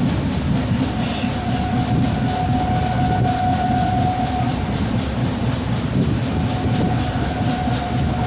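Kaifiyat Superfast Express running at speed, heard from aboard a coach: a steady rumble of wheels on the rails with a thin, steady whine that fades about halfway through and returns near the end.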